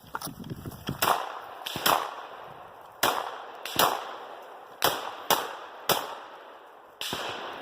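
Semi-automatic 12-gauge shotgun (Rock Island Armory VR-80) fired about eight times in an uneven string, roughly half a second to a second between shots, each a sharp crack with a short fading echo.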